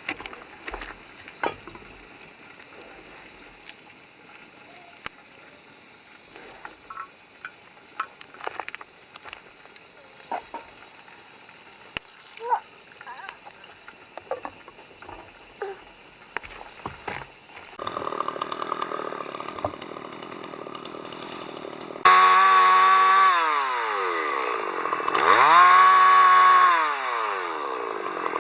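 A steady high drone of summer insects with scattered small knocks. About two-thirds of the way in, a chainsaw starts and is revved up and down several times, its pitch rising and falling.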